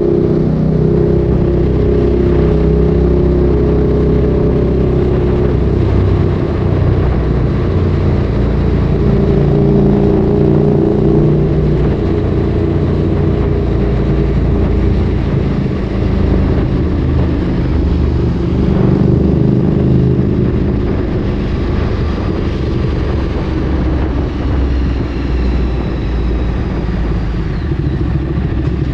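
Ducati Streetfighter 848's L-twin engine through a Termignoni exhaust, ridden in city traffic. It revs up and down through the gears, dropping in pitch at the start and rising again after about ten seconds, then runs lower and steadier.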